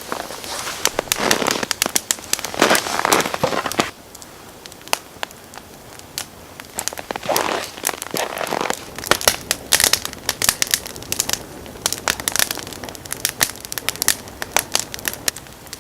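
Wood campfire crackling, with frequent sharp pops and snaps, and louder rustling noise in the first few seconds and again around eight seconds in.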